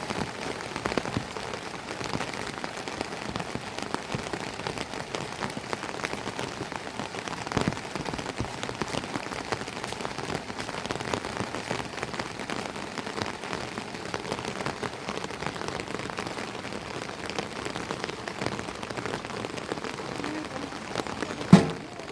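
Steady rain falling, with a single sharp loud knock near the end.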